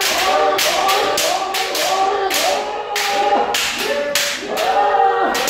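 Several kendo practitioners shouting drawn-out kiai over one another, with frequent sharp cracks of bamboo shinai strikes and stamps every few tenths of a second.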